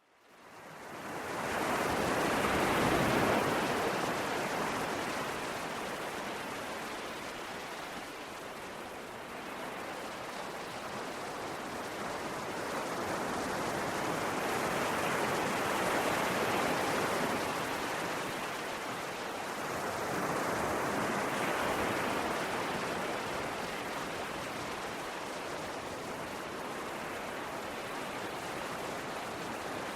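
Ocean waves washing onto a shore: a steady rushing surf that fades in from silence over the first couple of seconds, then swells and ebbs in slow surges several seconds apart.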